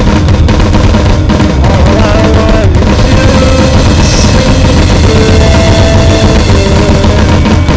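Loud rock band playing an instrumental passage with no vocals: a full drum kit pounding under dense distorted instruments, with a few held, sliding melody notes over the top.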